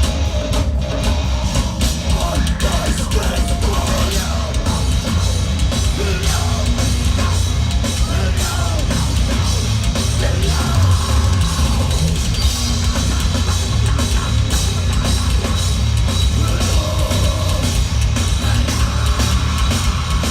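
Heavy metal band playing live at full volume: distorted guitars and bass over a driving drum kit, with some singing.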